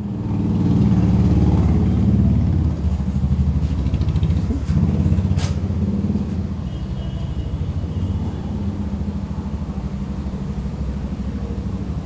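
Royal Enfield Himalayan's single-cylinder engine running while riding, a steady low throb that is loudest in the first few seconds.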